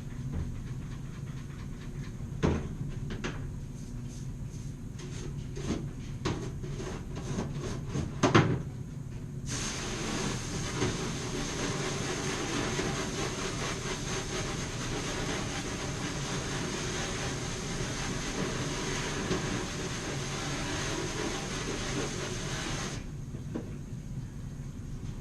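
Compressed air from a blow gun hissing steadily for about thirteen seconds while the chainsaw chain is cleaned. It starts abruptly about nine seconds in and cuts off sharply. Before it come a few small clicks and knocks of handling.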